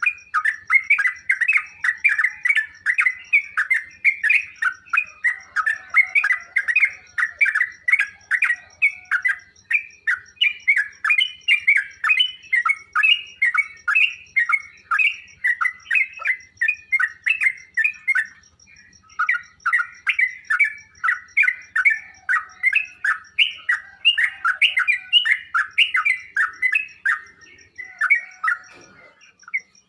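Yellow-vented bulbul (trucuk) singing a long, fast, unbroken run of short chirping notes, with brief pauses about two-thirds of the way through and again near the end. A faint steady high tone lies beneath the song.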